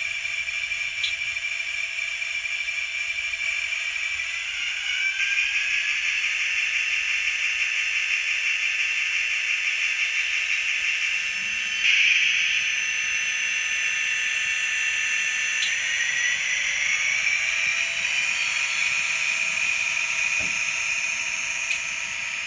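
Diesel locomotive sound from a DCC sound decoder, played through a small model-train speaker with almost no bass: a steady prime-mover tone whose whine rises in pitch twice, about five and seventeen seconds in, with a short louder burst about twelve seconds in.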